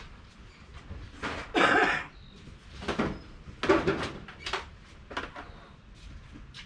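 Boxes and belongings being handled and moved: a series of short knocks and rustles, the loudest a half-second rustle or scrape about one and a half seconds in.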